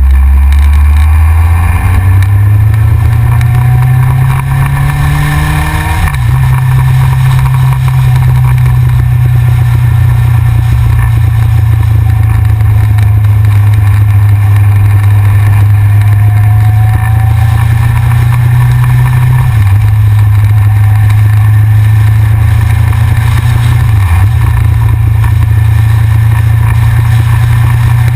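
Yamaha XJR's air-cooled inline-four engine pulling hard, its note rising for about six seconds until a gear change drops it. It then runs at a steady cruise, with two brief dips in the engine note later on.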